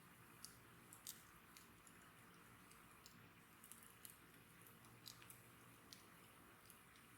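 Wood bonfire burning quietly: sparse, irregular faint crackles and pops over a soft steady hiss.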